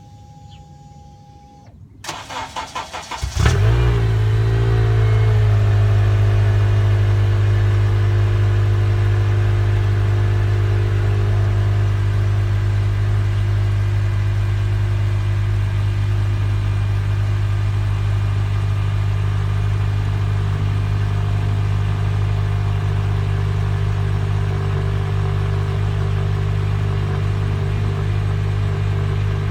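Cold start of an Acura TSX whose mid-muffler and resonator have been replaced with a straight pipe. The starter cranks for about a second and a half, the engine catches suddenly, then it settles within a couple of seconds into a steady, deep idle that lasts to the end.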